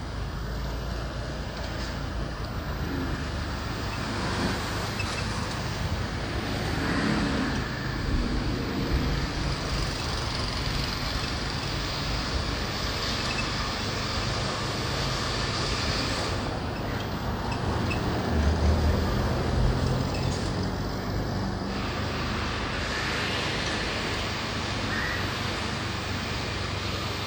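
Motorbike engine and street traffic heard from a moving motorbike, a steady mix of engine hum and road noise. It grows louder for a couple of seconds about two-thirds of the way through.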